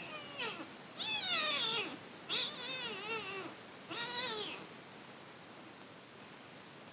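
Kitten meowing: a brief faint cry, then three high meows, the longest about a second.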